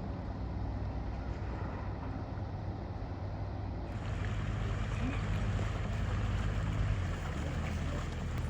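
Ferry engine running with a steady low hum under rushing water and wind noise on the microphone. The rushing grows brighter about four seconds in.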